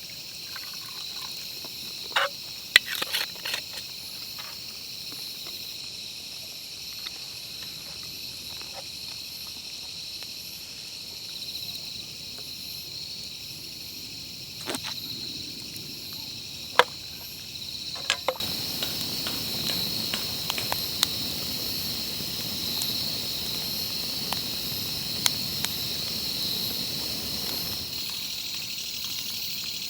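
Insects chirring steadily at a high pitch, with scattered sharp clicks and crackles. About eighteen seconds in, a soft rushing noise joins for roughly ten seconds, then drops away.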